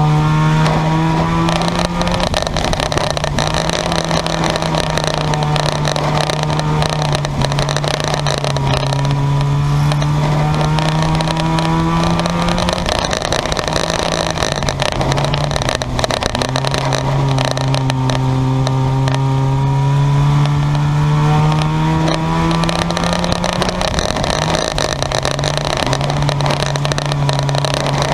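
Race car engines running laps on an oval track. Their pitch climbs for several seconds and then drops, about three times, as the cars accelerate down the straights and lift for the turns.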